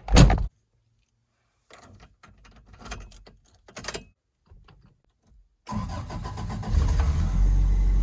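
A car door shuts with a heavy thump, then a few light clicks. About six seconds in the car's engine cranks and starts, settling into a steady low-pitched idle.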